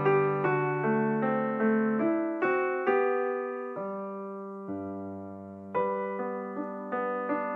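Slow, gentle piano music used as background: single notes and chords struck about every half second, each fading away. There are fewer new notes in the middle, then a louder chord about six seconds in.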